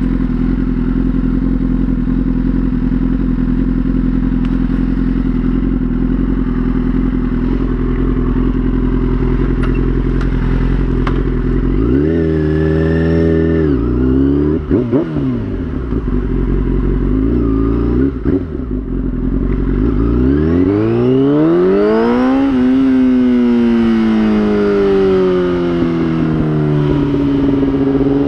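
2003 Yamaha YZF-R6's inline-four engine running at steady revs, then revving up and down a few times around the middle. About twenty seconds in it revs hard, rising in pitch for about two seconds as the bike is pulled into a wheelie, then the revs slide slowly back down and settle.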